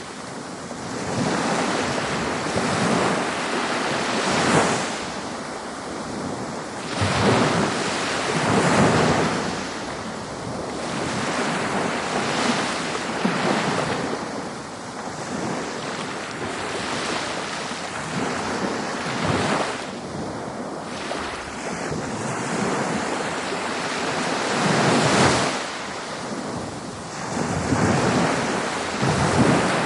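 Ocean waves breaking and washing up on a beach: a continuous rush of surf that swells and falls back every few seconds. Some wind on the microphone.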